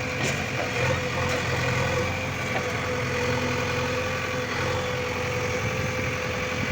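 Diesel engine of a JCB 3DX backhoe loader running steadily, with a steady whine held over it.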